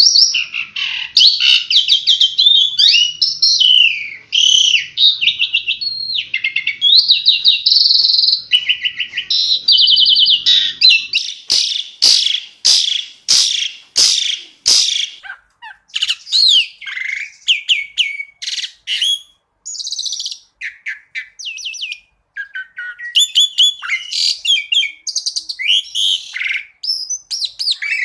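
Asian pied starling (jalak suren) singing a long, varied song of slurred whistles, fast trills and chatter. Near the middle there is a run of sharp clicking notes, about two a second.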